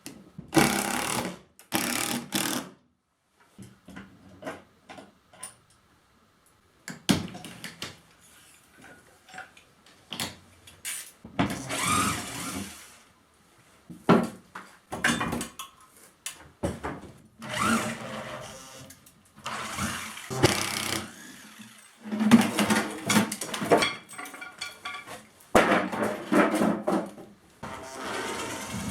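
Woodworking on the ceiling: a string of short bursts of tool noise, each one to two seconds long, with sharp knocks and clicks in the gaps between them.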